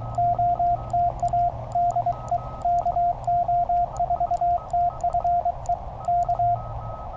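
Morse code from a Penntek TR-35 QRP transceiver: a single steady-pitch tone keyed in quick dits and dahs, with a faint click at each element. The keying stops near the end, leaving receiver hiss.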